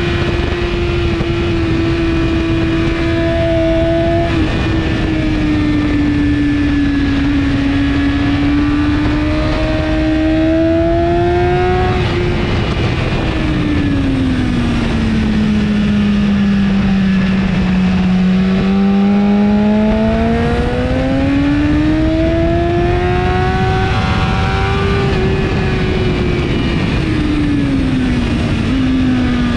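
2017 BMW S1000RR's inline-four engine with an Akrapovic exhaust running hard at high revs under heavy wind rush. Its pitch holds high, slides down to its lowest a little past halfway, then climbs back, with a small drop near the end.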